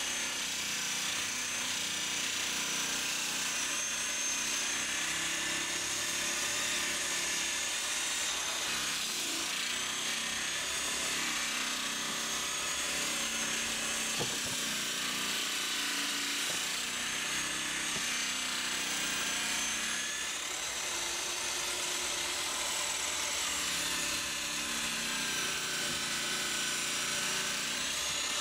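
Electric grinders running continuously against a catamaran's fiberglass hull, a steady grinding noise with a high motor whine that wavers in pitch as the load changes.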